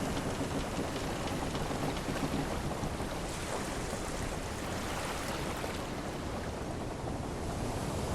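Steady rush of sea and wind around a wooden ship, an even wash of noise with a faint rain-like crackle.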